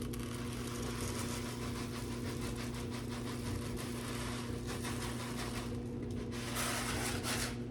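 Small electric motor running steadily: a low, even hum with a hiss over it, and a short rustling swell near the end.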